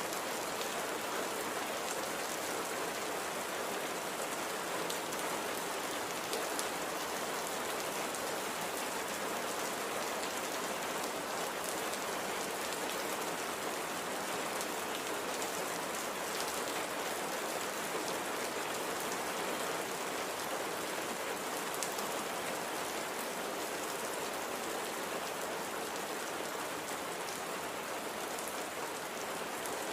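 Steady light rain falling, an even patter of many small drops with faint scattered ticks of individual drops.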